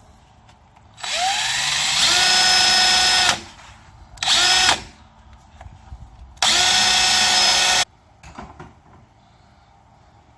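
Power drill boring a small hole in a window crank mechanism, sized for the handle's set screw. The motor runs three times: a run of about two seconds that starts a second in with a rising whine as it spins up, then a short burst, then a run of about a second and a half, each with a steady whine.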